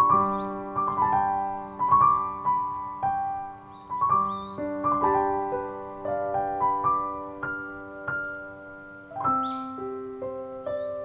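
Solo piano background music, slow single notes and chords each struck and left to ring, with a few faint high, short bird calls above it.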